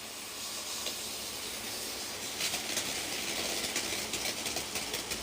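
Steady hissing that grows a little louder about two and a half seconds in.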